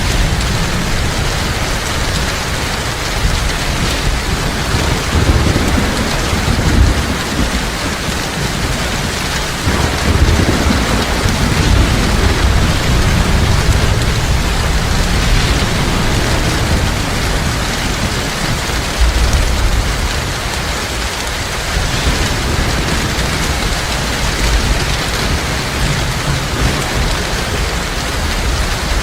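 Heavy rain falling steadily in a dense, even hiss, with low rolls of thunder swelling and fading several times underneath.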